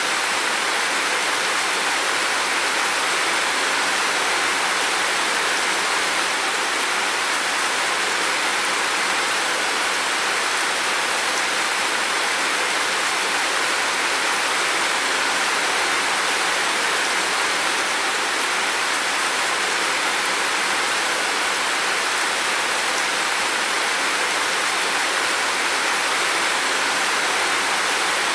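Heavy rain falling steadily: an even, unbroken hiss of many drops with no separate drips or thunder.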